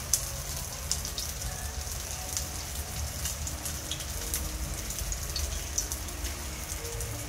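Tofu and chicken balls frying in hot oil in a stainless steel pan: a steady sizzle with many small irregular crackling pops, over a steady low rumble.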